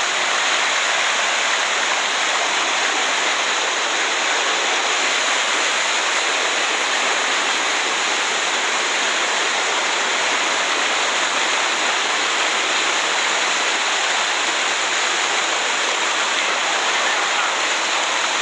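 Waterfall: water falling and splashing over rock in a steady, loud rush with no breaks.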